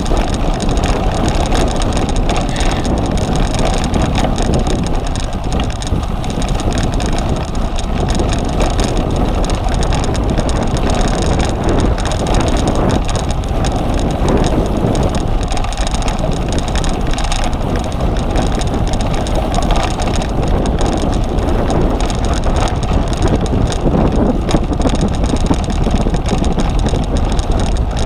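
Wind buffeting the microphone of a camera on a cyclocross bike being ridden, over a steady rumble of tyres and drivetrain on the course.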